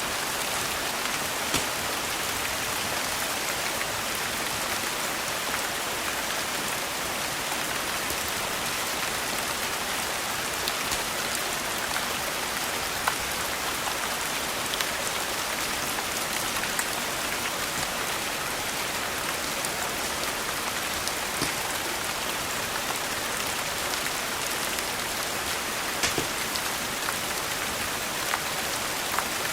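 Steady rain falling, an even hiss, with scattered sharp ticks every few seconds.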